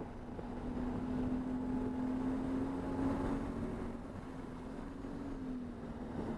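Race car engine running at fairly steady revs, with a slight rise in pitch and then a drop about five seconds in.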